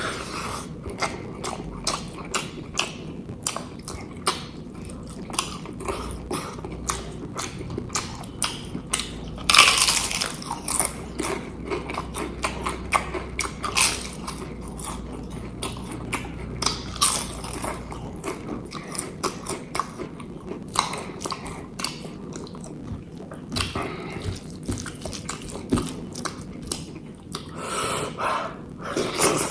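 Close-miked mouth sounds of a person eating egg curry and rice: steady, irregular wet chewing, lip smacks and clicks. A louder burst of eating noise comes about ten seconds in and again near the end.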